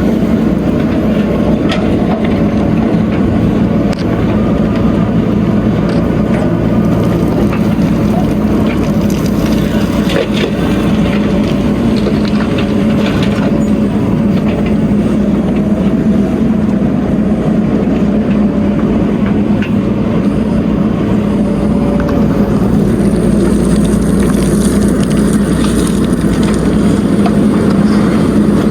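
Heavy diesel engine of earth-moving machinery running steadily under work, a constant low engine drone.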